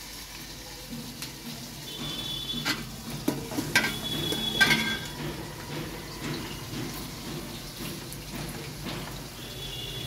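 Chicken, onions and masala frying in an aluminium pot on a gas stove, a steady sizzle, with a few clanks of a metal ladle against the pot between about two and five seconds in.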